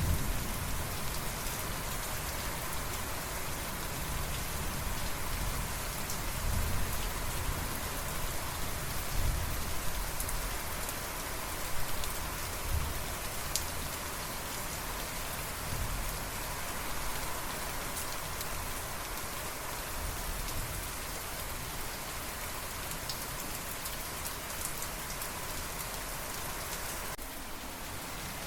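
Steady rain falling and pattering on surfaces, with a few soft, low rumbles of thunder swelling now and then. The rain dips briefly in level near the end.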